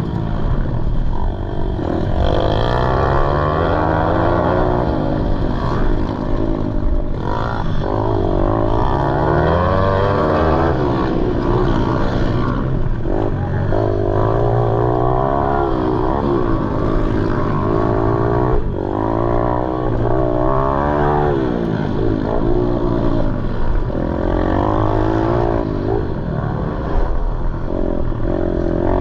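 Pit bike engines, small four-stroke singles, racing. Their pitch climbs and drops again and again as the riders open and close the throttle.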